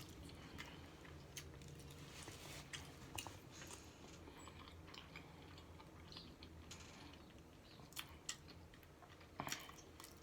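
Quiet chewing of a mouthful of food close to the microphone, with scattered small wet clicks.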